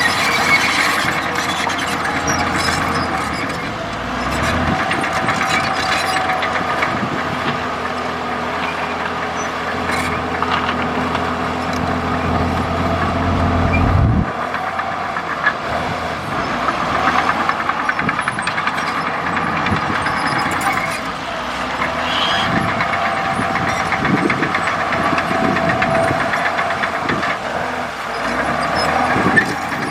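Komatsu D65E bulldozer's diesel engine running steadily while it works, its note shifting several times, with scattered clanks and knocks.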